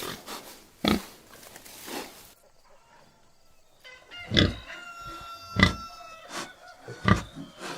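Domestic pig grunting and oinking in short, separate calls. A couple come in the first two seconds, then after a short lull a few louder ones, with a thin steady high tone held under the later calls.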